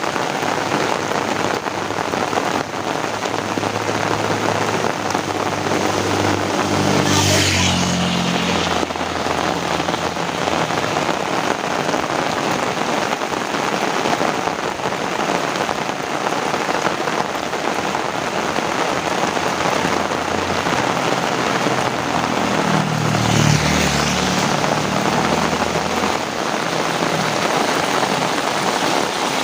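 Heavy rain falling steadily. Two motor vehicles pass on the wet road, one about seven seconds in and another around twenty-three seconds in; each one's engine note rises, then drops in pitch as it goes by, with a swish of tyres on water at its closest.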